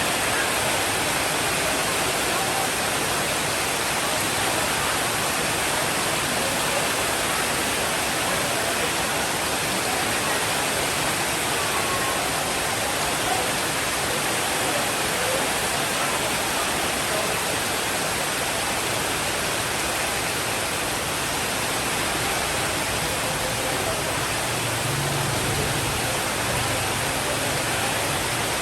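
Steady heavy rainfall, a dense even hiss with no change in level. A faint low rumble comes in near the end.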